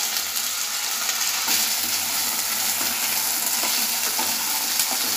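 Peeled, quartered taro (arvi) pieces sizzling steadily as they fry in hot oil in a non-stick kadai, stirred with a wooden spatula that knocks against the pan a few times.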